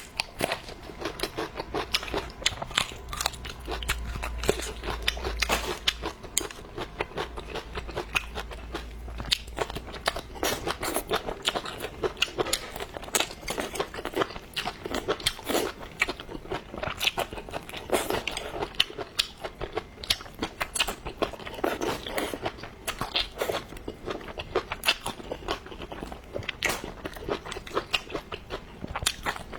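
Close-miked eating sounds: a person chewing and crunching food, with a rapid, steady run of wet mouth clicks and crunches.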